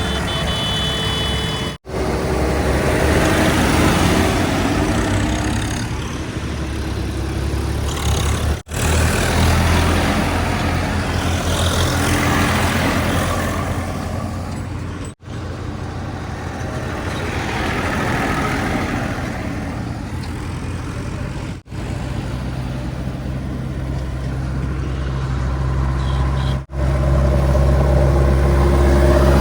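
Heavy diesel vehicle engines running and revving in swells, in a string of short clips that cut off abruptly about every five or six seconds.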